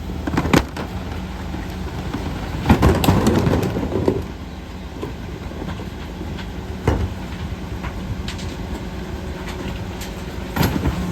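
Mercedes Econic refuse truck running steadily, with a burst of metallic clattering and rattling about three seconds in that lasts over a second. Sharp single knocks come near the start, in the middle and near the end.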